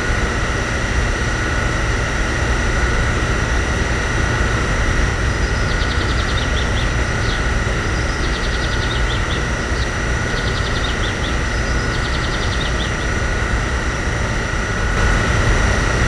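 A small motor running steadily with a hum and a constant high whine, consistent with the model petrol pump's motor running while it dispenses. Four short clusters of rapid high chirps come in from about six seconds in.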